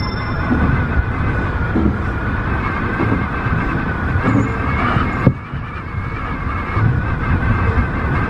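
Tobu 50090-series electric train running, heard from inside the car: a steady low rumble of wheels on rail with a thin, wavering high whine over it. About five seconds in comes a single sharp click, and the sound drops quieter for a moment.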